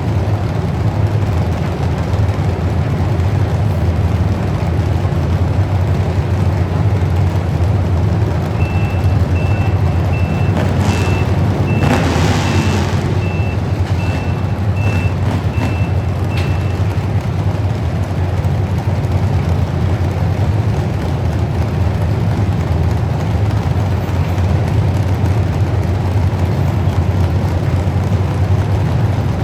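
Heavy truck engine running steadily, with a reversing alarm beeping about once a second from roughly nine to sixteen seconds in. A brief hiss rises over it around twelve seconds in.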